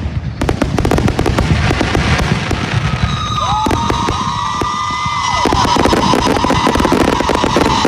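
Fireworks going off in a dense run of rapid pops and crackles, joined about three seconds in by shrill whistling tones that hold and glide.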